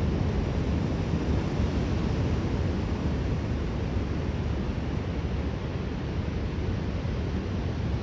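Steady wind rushing over the microphone mixed with the constant wash of rough surf.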